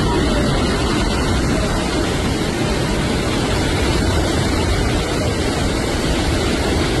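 Hurricane wind and heavy rain: a loud, steady rush with a deep rumble of wind on the microphone.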